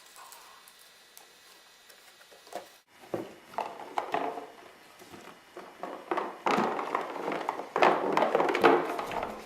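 Dog tearing and crunching at a cardboard shoe box to get at treats inside. Irregular scraping and crackling bursts start about three seconds in and grow denser and louder toward the end.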